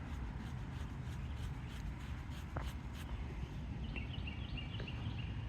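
Steady low wind rumble on the microphone with scattered faint ticks, and a bird singing a quick run of short, high chirps starting about four seconds in.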